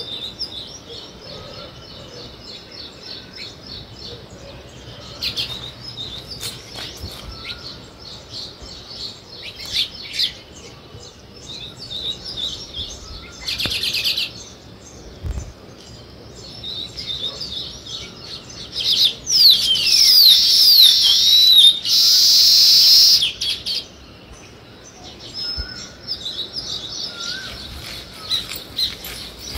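Small birds chirping in rapid, repeated short notes. About two-thirds of the way through there is a louder stretch of sweeping, falling calls, then a brief dense burst of chatter.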